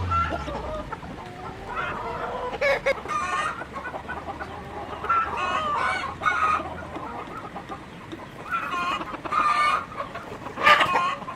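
Chickens clucking in several bouts, with a rooster crowing among them.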